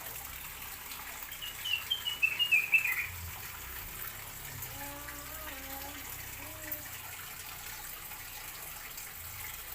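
A bird gives a quick run of short chirps that step down in pitch, about a second and a half in, over a steady rushing hiss like running water.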